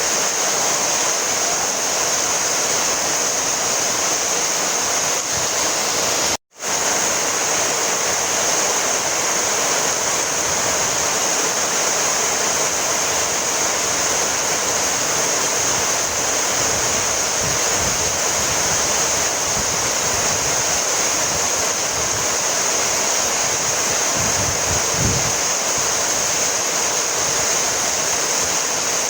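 Heavy rain falling steadily, an even hiss that cuts out for a split second about six seconds in.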